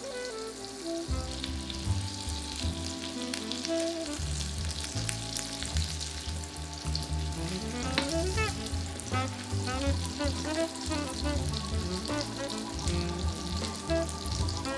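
Turnips frying in foaming butter in a pan: a steady sizzle with fine crackles throughout. Light background music with melodic notes plays along.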